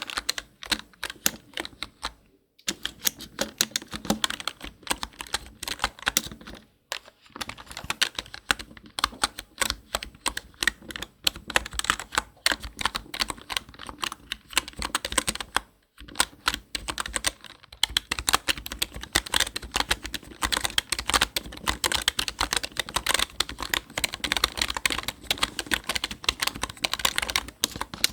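Typing on a computer keyboard: a fast, uneven run of key clicks, broken by a few short pauses of under a second.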